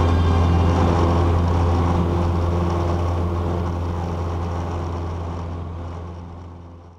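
Cessna 150's engine and propeller droning steadily, heard inside the cockpit, fading out over the last two seconds.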